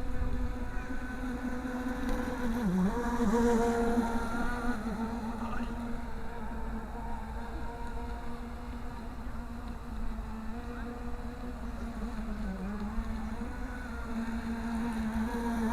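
Radio-controlled model boat's motor running steadily with a buzzing drone, its pitch dipping briefly about three seconds in and again near the end.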